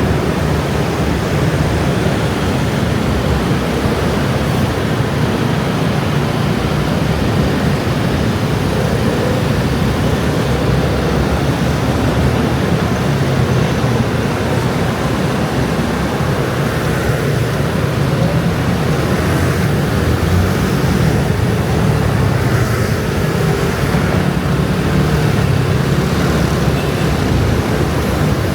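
Dense scooter and motorbike traffic: many small engines running together in a steady mass.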